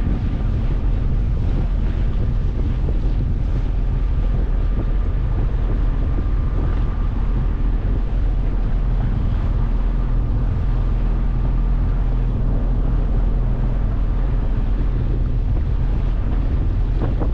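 9.8 hp outboard motor running steadily, with wind buffeting the microphone.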